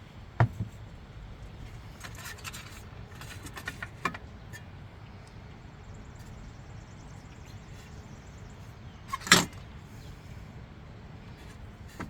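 Scattered clicks and clinks of hand tools and small metal parts being handled, with a short cluster of light clicks early on and one sharper knock about nine seconds in.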